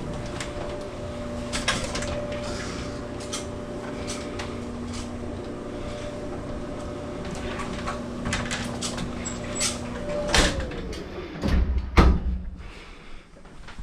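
Frigidaire clothes dryer running, its motor humming steadily with scattered clicks and knocks from the drum. About ten seconds in it is switched off and the motor winds down, falling in pitch, followed by a loud thump.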